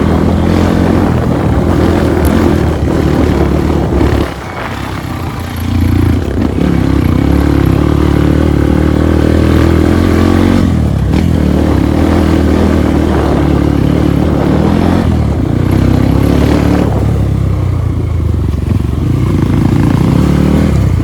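Trail motorcycle engine running under load on a muddy track, its pitch rising and falling as the throttle is worked. It eases off sharply about four seconds in, then picks up again, and eases off more gently near the end.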